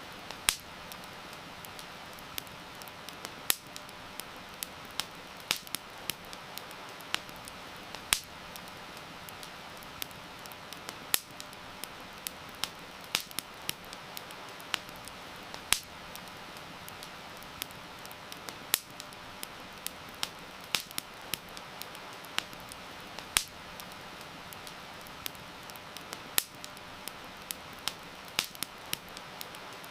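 Wood campfire crackling, with sharp irregular pops a few times a second, over a steady hiss of heavy rain.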